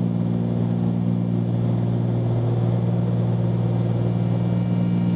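Steady drone of a Cessna 310Q's twin piston engines and propellers in climb, heard in the cockpit as an even, unchanging hum.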